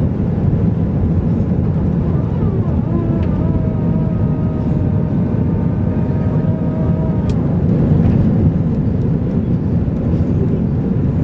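Steady, deep roar of an Airbus A320's jet engines and airflow during takeoff. A faint wavering tone sits over it for a few seconds in the middle, and there is a single sharp click about seven seconds in.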